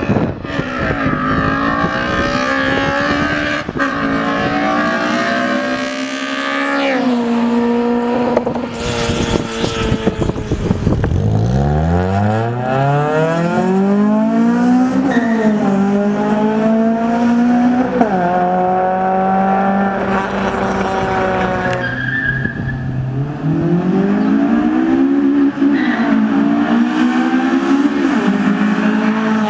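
Car engine accelerating hard through the gears: its pitch climbs and drops back at each gear change, several times, and about eleven seconds in it climbs again from low revs.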